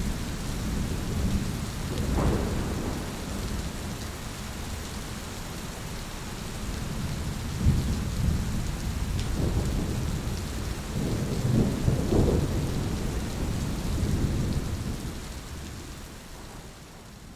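Steady rain with rolling thunder rumbling low underneath, swelling up several times, most strongly a little past the middle, then fading away near the end.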